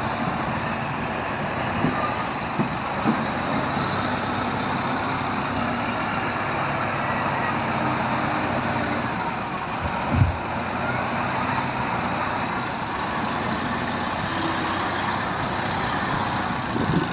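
Heavy diesel engine running steadily, with a few short knocks and one heavier thump about ten seconds in.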